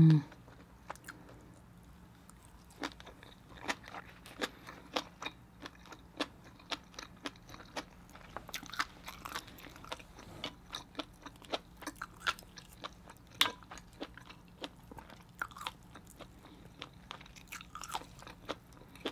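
Close-miked eating of a mussel with fish-egg sauce: a long run of wet chewing with sharp, irregular crunches and clicks, several a second. A brief hum at the very start.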